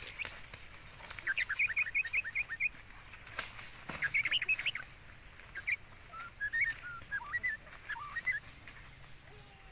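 Birds chirping: runs of quick, high chirps, several to the second, then slower, upward-hooked calls in the second half. A few sharp snaps sound about three to four seconds in.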